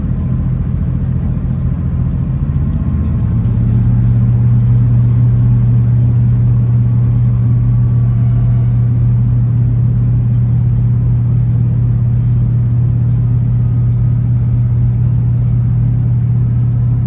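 Steady low drone and rumble of a vehicle in motion, stepping up in loudness about three seconds in and then holding steady.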